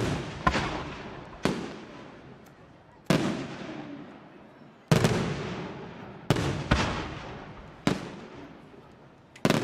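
Aerial firework shells bursting one after another: about nine sharp bangs, one to two seconds apart, each trailing off in a long echo.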